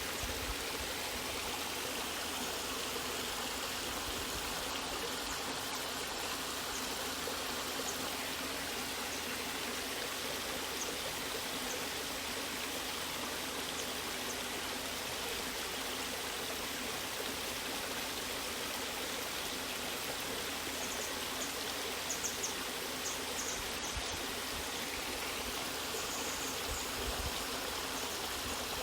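Natural waterfall: water rushing steadily in an even hiss without breaks, with a few faint high ticks in the last few seconds.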